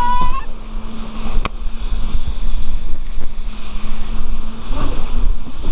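Jet ski engine running with a steady hum over rushing water, with heavy wind buffeting the microphone.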